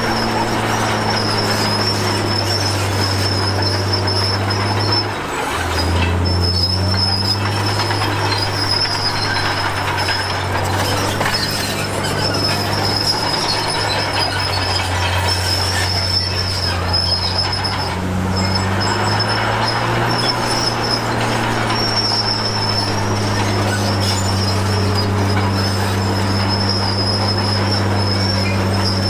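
Komatsu D53P crawler bulldozer working, its diesel engine running steadily under load with a steady high whine from the running gear. The engine note dips briefly about five seconds in and rises a little again about two-thirds of the way through.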